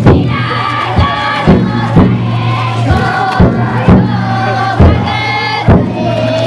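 Futon daiko float's taiko drum struck in a steady beat, with a group of bearers and riders chanting together in long held calls.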